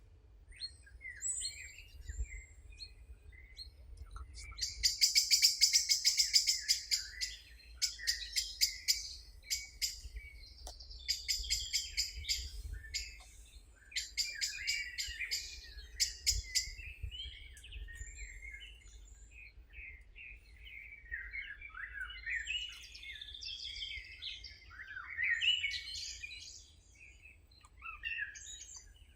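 Songbirds singing: fast trills of rapidly repeated high notes through the first half, then varied chirps and warbling phrases.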